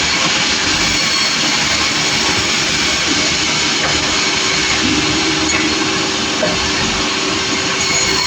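Sawmill running, a loud steady machine noise without a break.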